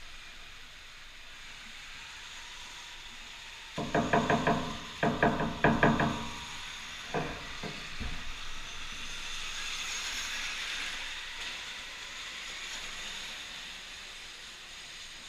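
Electric dirt bike motors whining high over a steady hiss. A little under four seconds in comes a run of loud, pitched pulses lasting about two and a half seconds, then a few weaker ones.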